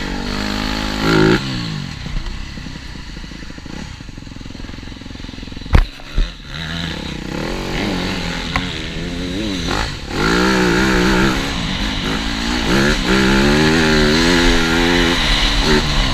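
TM Racing 250 Fi motocross bike engine revving up and down through repeated throttle changes, rising and falling in pitch. There are two sharp thumps about six seconds in, and the engine runs harder and louder over the last third.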